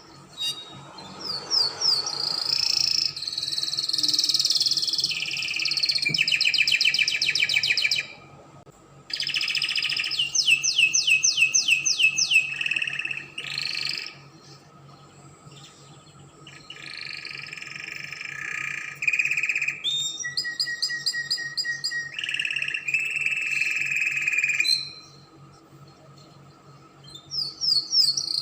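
Spanish Timbrado canary singing: long phrases of fast, evenly pulsed trills and rolls alternating with held notes, broken by short pauses about 8 seconds in, from about 14 to 17 seconds, and near the end.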